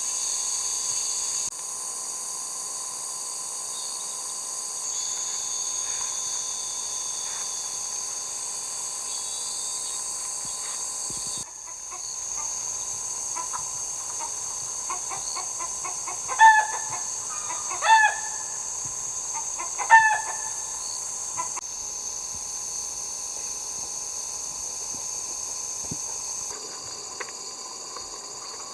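Steady high-pitched insect chorus, with three loud, short bird calls about halfway through, each a second or so apart.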